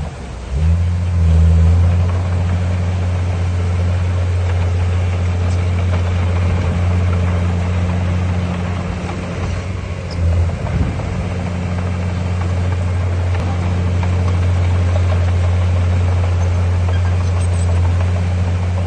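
Heavy construction machine's diesel engine running steadily with a low drone, briefly rising in level about a second in and again around ten seconds in.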